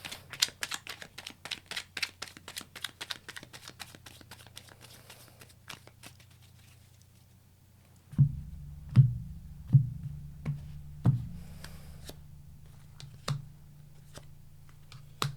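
Tarot cards being shuffled: a quick run of crisp card clicks for about four seconds. From about halfway through, a low hum with a handful of separate thumps.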